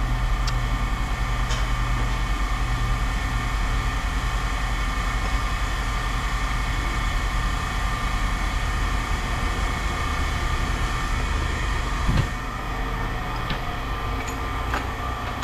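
Steady low mechanical hum of machinery running, like an idling engine, with a few light clicks. A thump comes about twelve seconds in, after which the hum is a little quieter.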